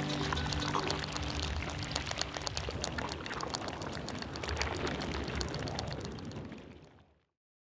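Water pouring and splashing with a crackly, trickling texture, which fades out and stops about seven seconds in. The tail of background music is heard at the very start.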